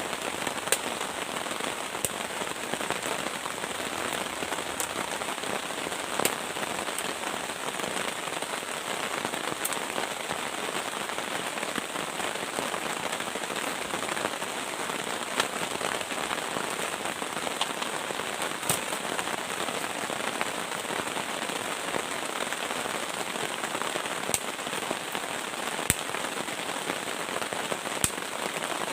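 Heavy rain falling steadily, with a sharp tick every few seconds.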